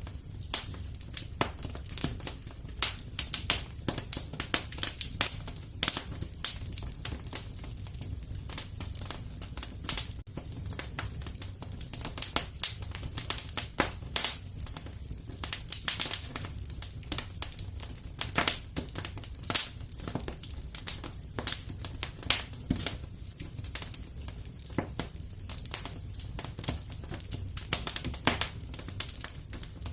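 Wood fire crackling and popping irregularly, with many sharp snaps over a steady low rumble of the flames.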